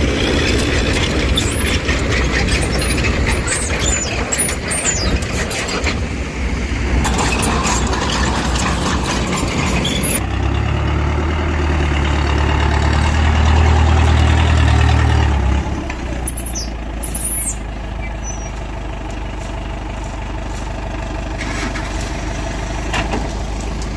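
Heavy diesel engine of earth-moving machinery running steadily, with a deep drone that gets louder from about ten seconds in and drops back to a lower, steadier run about six seconds later, followed by a few sharp clanks.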